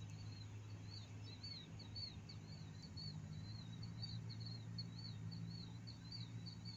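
A continuous run of quick, high, squeaky trilling chirps, several a second, from small night-flying animals the recordist can't identify, over a faint steady low hum.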